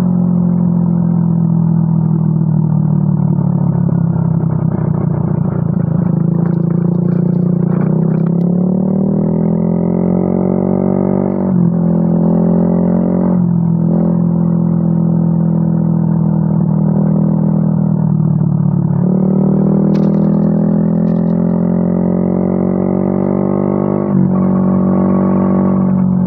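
Yamaha Mio M3 scooter's single-cylinder engine running through an aftermarket WRX exhaust, its pitch climbing slowly as it is revved and then dropping suddenly when the throttle is let off, several times.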